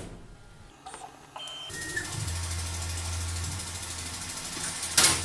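Tormach PCNC 440 milling machine starting up: a short beep, then the spindle spinning up to a steady whirr and hum. Near the end there is a brief loud rush of noise.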